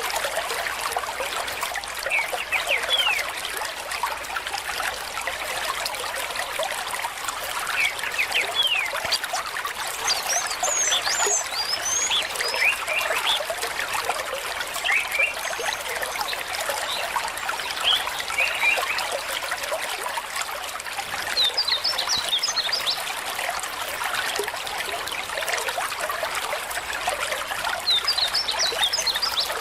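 Stream water trickling and babbling steadily, with short high chirps scattered through.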